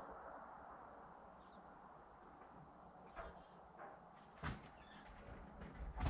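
A few faint, short, high bird chirps in the first two seconds, then scattered clicks and a sharp thump about four and a half seconds in, with a louder knock near the end.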